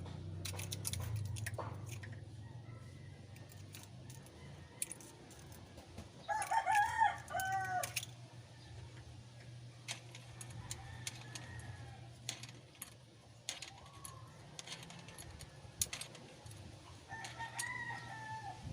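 A rooster crows loudly about six seconds in, and again more faintly near the end. Scattered light clicks and a low steady hum run underneath.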